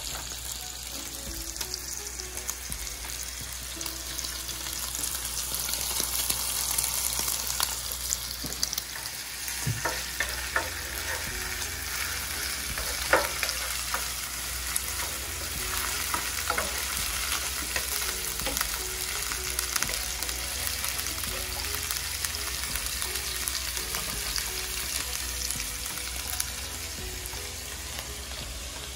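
Hot oil sizzling steadily as battered food deep-fries in one pan and meat stir-fries in another. Now and then a wooden spoon clicks and scrapes against the pan, most often about a third to halfway through.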